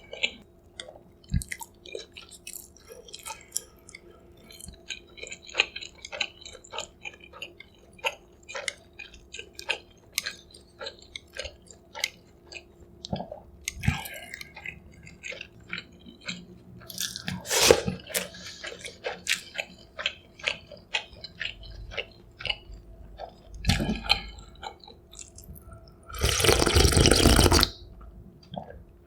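Close-miked eating sounds: chewing and wet mouth clicks and smacks one after another, with a loud noisy sound lasting about a second and a half near the end.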